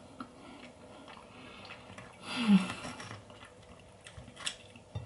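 Quiet chewing of a mouthful of Yorkshire pudding, with a short breathy voiced 'mm' about two and a half seconds in, the loudest sound. Near the end, a couple of sharp clicks of a metal fork and knife against the plate.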